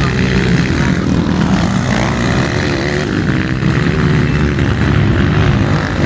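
Motocross motorcycle engines running loud and continuous, their pitch wavering up and down as they rev.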